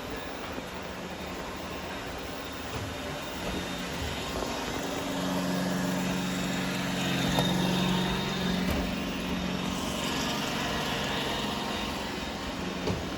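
Several robot vacuums running at once: a steady motor hum and whir with brush and suction noise, growing louder for a few seconds in the middle.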